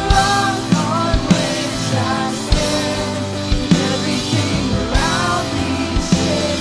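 Church worship band music: sustained chords with drum hits, and a wavering melody line that comes in at the start and again about five seconds in.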